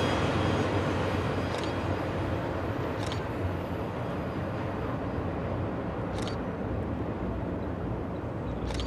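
Double-stack container freight train rolling away, its rumble fading steadily as the last cars recede, with a few brief faint high squeaks.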